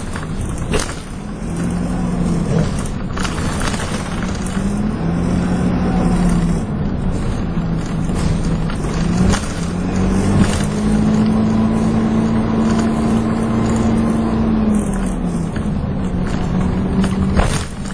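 Dennis Dart SLF single-decker bus heard from on board, its engine and drivetrain pulling away and climbing through the gears several times, with the pitch rising and dropping back at each change, the 'hoover' whine the title names. Body rattles and clicks sound over it.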